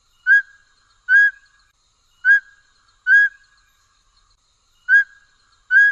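A bird's clear whistled call note, given six times at uneven intervals, each note short with a quick upward hook.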